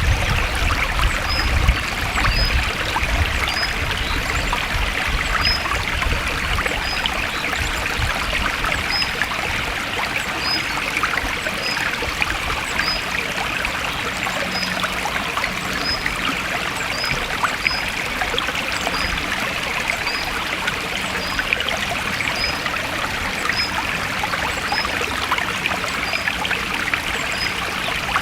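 Forest stream flowing steadily, a constant rushing and trickling of water. Faint high chirps repeat about once a second over it.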